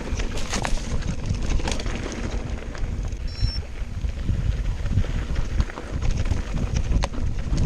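Wind buffeting the microphone over the rumble and scattered knocks and rattles of a mountain bike descending a rough trail, with a brief high squeak about three seconds in.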